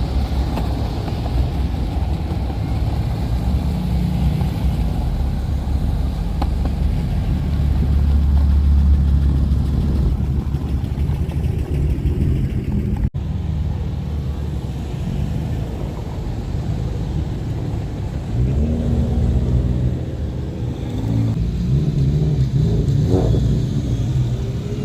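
Car engines rumbling, with several rising revs in the last few seconds as cars accelerate.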